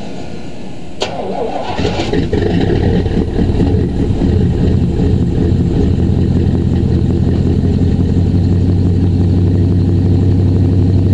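GMC Sierra's 5.7-litre (350) V8 cranking on a weak, cold-sapped battery with a click, catching about two seconds in, then running steadily. It is heard through a Flowmaster 40 muffler and a MagnaFlow high-flow catalytic converter.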